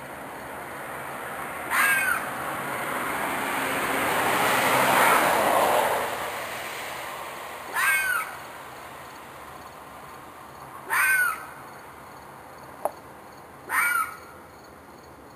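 Four short screeching animal cries a few seconds apart, each arching up and then down in pitch: the long-running night screaming that the recordist took for an animal in distress, perhaps a fox or a coyote. Between the first two cries a rushing noise swells and fades away.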